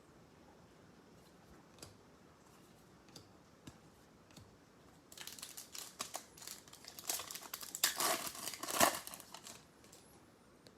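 A few faint clicks of card handling, then about five seconds in a plastic trading-card pack wrapper crinkling and tearing as it is opened, for about four seconds.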